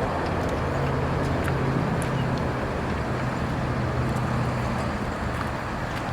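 Diesel engine of a Freightliner Coronado truck idling steadily with a low hum, easing off a little in the second half.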